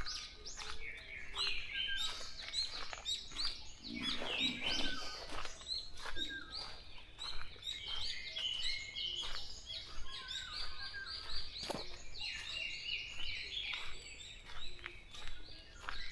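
Dawn chorus of many songbirds singing at once: overlapping chirps and quick repeated whistled phrases, with no one bird standing out.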